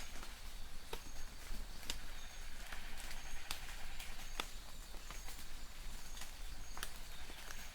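Light rain in a forest: a steady hiss with scattered sharp drips of water. A distant bird repeats short high chirps about once a second.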